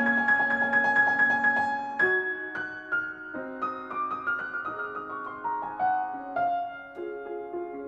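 Background piano music: a quick run of repeated notes, then slower single notes stepping up and then down.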